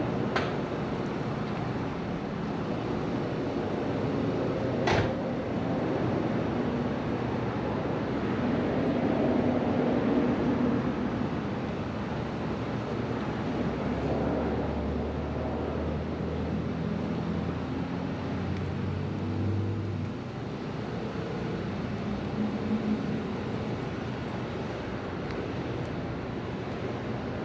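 Nissan Skyline R33's RB25DET turbocharged straight-six idling on a cold start through a newly fitted exhaust, a steady running note with a couple of sharp clicks.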